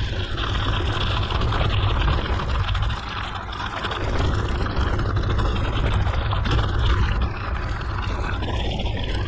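Mountain bike rolling along a forest road: wind rumbling on the camera microphone over steady tyre noise.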